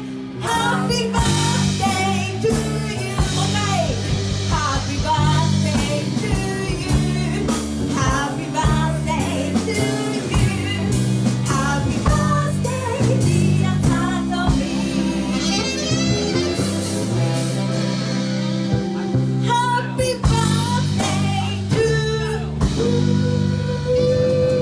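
Live band music with singing over sustained bass notes and a steady beat.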